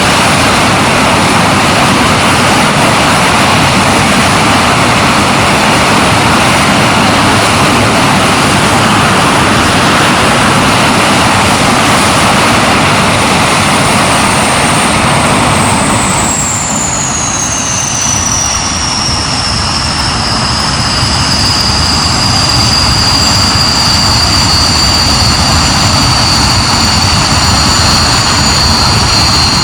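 Hawker Hunter's jet engine running on a ground run. At first it is a loud, even roar. About halfway through the roar eases as the power comes back, and a high whistling whine slides down in pitch, then holds steady as the engine settles at a lower setting.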